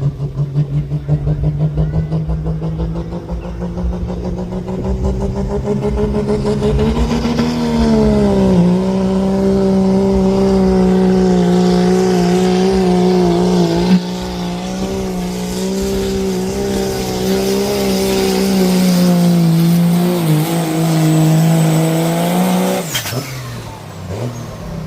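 Pickup truck's engine at full throttle pulling a weighted sled: the revs climb over the first several seconds, then hold high and fairly steady under load. The engine drops off abruptly about 23 seconds in as the pull ends.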